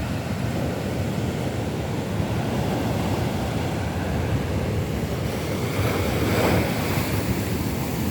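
Rough sea surf washing onto a beach, a steady rush of waves with one wave breaking louder about six seconds in. Wind buffets the microphone with a low rumble.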